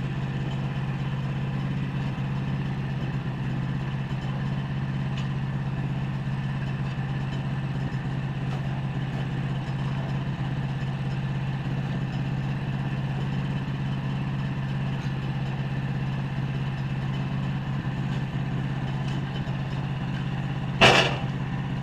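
Sawmill engine running steadily at an even speed, with a single sharp bang near the end.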